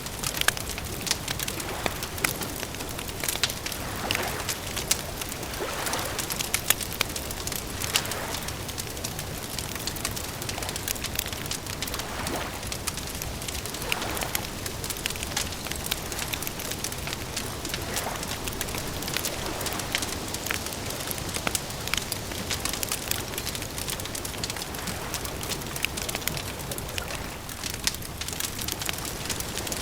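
Campfire crackling: a dense run of sharp pops and snaps over a steady hiss, with softer swells recurring every couple of seconds.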